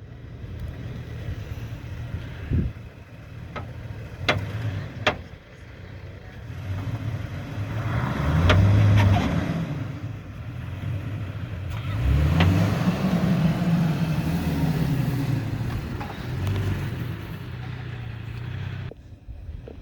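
Toyota Tacoma pickup's engine pulling through sand, revving up and easing off twice, with the pitch climbing as it accelerates about twelve seconds in. A few sharp knocks sound in the first several seconds.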